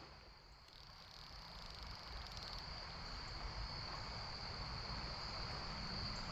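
A steady high-pitched insect trill, typical of crickets in fall, over the rush of the stream, the whole slowly growing louder.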